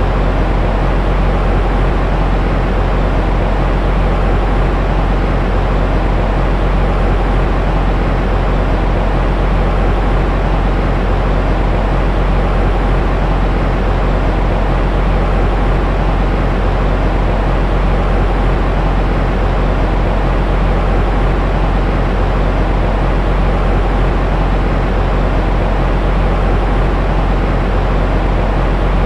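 Continuous baby-sleep white noise: a steady, unchanging rushing hiss with a deep low rumble underneath and a softened top end.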